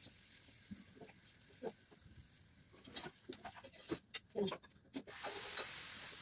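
Spatula clicking and scraping against a frying pan and plate as a cooked flatbread is lifted out, with a short pitched cry about four seconds in; about five seconds in a steady sizzling hiss starts as batter is poured into the hot pan.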